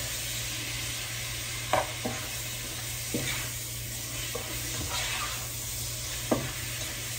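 Pork belly sizzling as it sautés in a pot, with a utensil stirring it and clicking against the pot several times.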